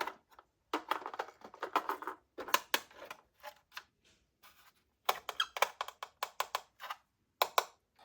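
Small toy cars clicking and clacking as they are handled, in quick runs of sharp taps with short gaps between them.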